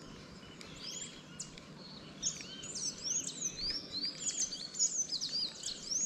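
Several birds chirping, with many short, quick whistled calls rising and falling in pitch. The calls overlap and grow busier from about two seconds in.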